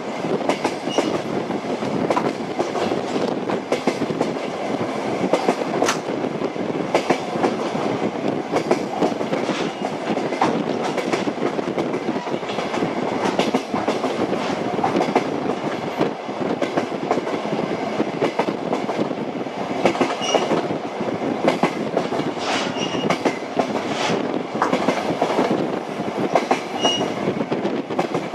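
Train wheels clattering over the rail joints as the train runs, a steady rumble with many short clicks, and a few brief high squeaks in the second half.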